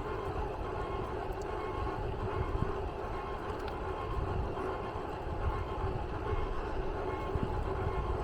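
Steady low rumble of a running vehicle, with faint steady tones held above it.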